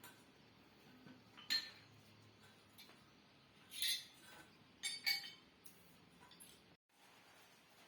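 A few light metallic clinks: one, then another, then two close together about five seconds in.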